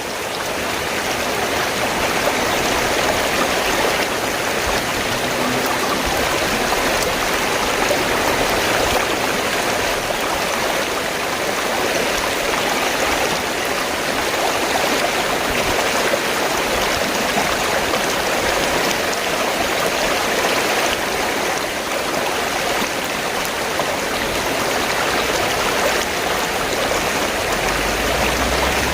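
River water flowing steadily, an even, unbroken wash of running water.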